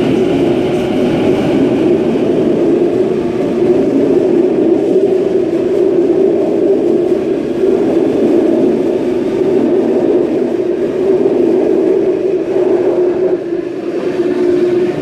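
Waratah Series 1 electric multiple unit train departing the platform, its traction motors and wheels running with a steady, loud rumble.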